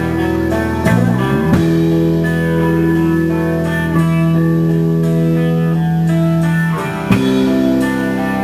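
Band playing an instrumental passage between sung lines: guitar chords ringing over bass, changing chord a few times, with a single sharp hit about seven seconds in.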